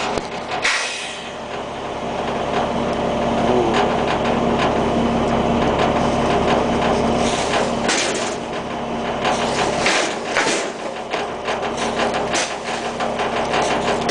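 Diesel engine of a 2003 International garbage truck with a Labrie side-loader body, running steadily, with a few short hissing bursts.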